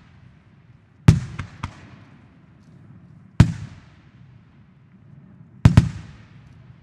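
Aerial firework shells bursting: a sharp boom about a second in followed by two smaller cracks, another boom about halfway, and a quick double boom near the end, each trailing off in echo.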